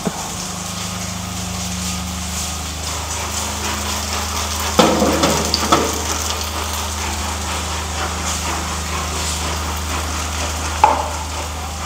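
Vegetable fritters sizzling in shallow oil in a small nonstick frying pan, over a steady low hum. A few short knocks about five seconds in, and another near the end.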